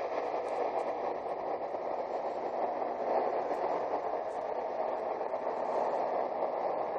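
Unexplained steady drone heard from the sky, even and unbroken, with a faint higher hum riding on it.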